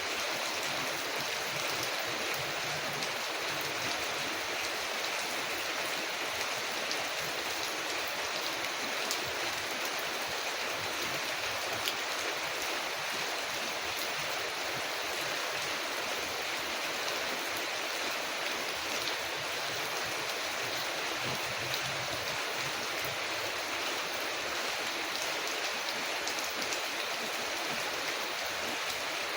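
Steady rain falling, a dense, even hiss with scattered faint ticks of drops.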